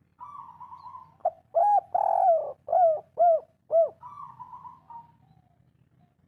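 Spotted dove (derkuku/tekukur) singing a 'kuk 3' style call: a soft rolling coo, then a run of about five loud, arched coos roughly half a second apart, then another soft rolling coo that trails off.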